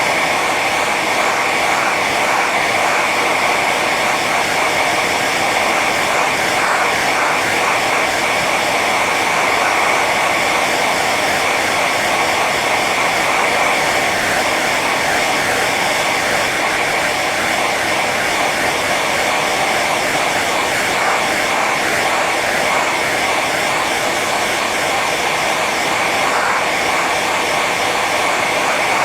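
Hair dryer running on its high setting: a steady, loud rush of air with a constant motor whine.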